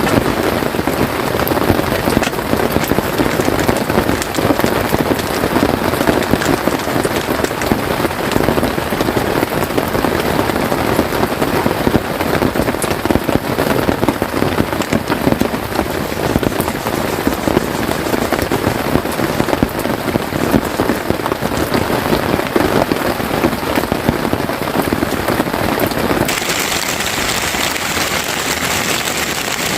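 Steady heavy rain pattering on a tent. About 26 seconds in, the sound changes abruptly to a brighter, hissier rain.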